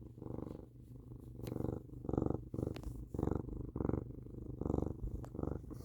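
Domestic cat purring steadily, the purr swelling and fading with each breath in and out.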